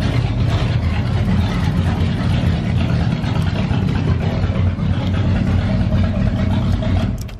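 1965 Pontiac Catalina's 389 cubic-inch V8 running steadily, its exhaust no longer rattling now that the manifold bolts that had bottomed out were replaced with shorter ones, fixing the leak. The sound cuts off near the end.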